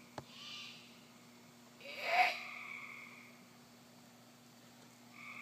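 Screeching calls from an unseen bird. A faint hissing screech comes about half a second in, then a louder, harsh one about two seconds in. Each is followed by a steady high note held for about a second, and the note returns near the end.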